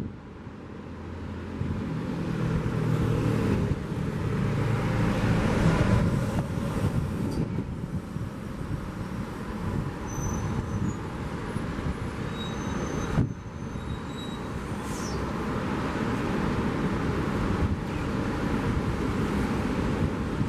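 A motor vehicle drives past with its engine getting louder, peaking about six seconds in and then fading. Steady surf and wind run underneath.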